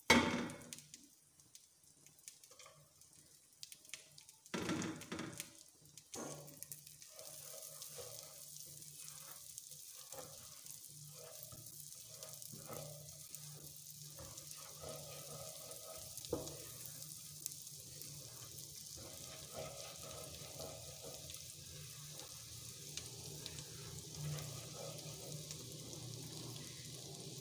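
Butter and chopped garlic sizzling gently in a nonstick pot, the sizzle settling in about six seconds in. A silicone spatula scrapes and taps as it stirs, with a couple of sharper knocks in the first five seconds.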